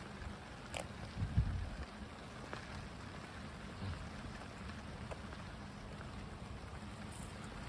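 Steady light rain with a low wind rumble on the microphone, a few faint drop ticks, and a dull low bump about a second and a half in.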